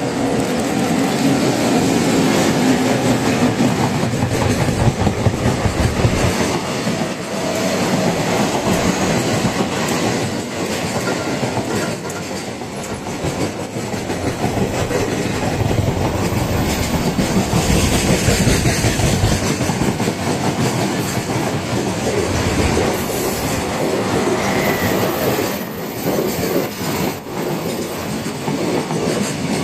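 EF65 electric locomotive hauling a freight train past, with a long continuous run of wagon wheels clicking over the rail joints.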